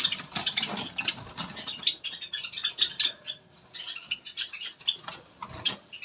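Small cage birds chirping, a rapid scatter of short high notes, mixed with light rustling and clicks.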